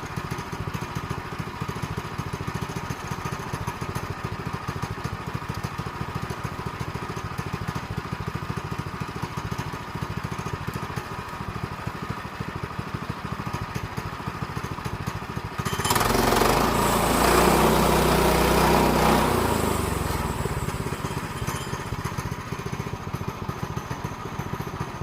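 A sawmill's small engine runs steadily with a fast, even firing pulse. About two-thirds of the way in, a much louder rushing noise rises for about four seconds and then fades away.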